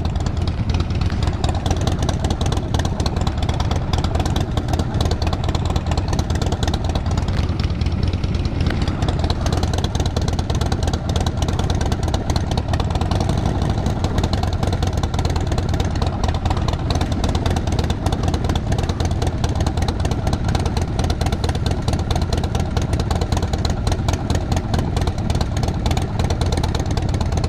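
Triumph 900 motorcycle engine running steadily with a dense, even beat and no change in pitch.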